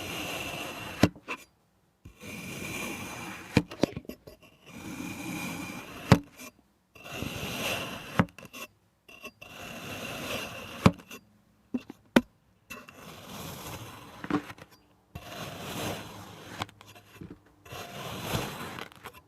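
Kinetic sand being cut with a blade: a series of crunchy scraping strokes, each one to two seconds long with short pauses between, and sharp clicks between some strokes.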